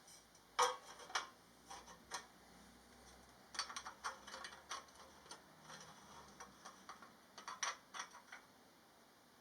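Light metallic clicks and clinks in a few irregular clusters: small metal exhaust parts being handled and knocked together on the bench.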